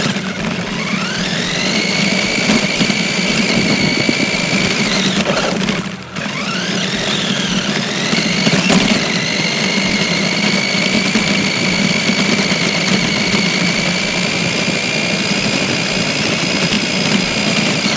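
RC car's motor whining: it spins up to a high steady pitch and holds. It cuts out briefly about six seconds in, then spins up again and holds.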